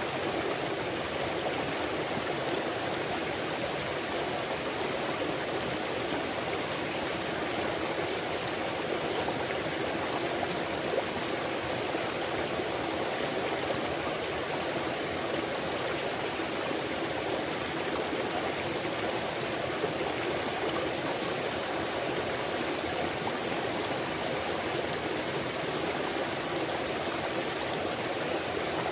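Stream water flowing steadily, an even rushing sound that holds constant throughout.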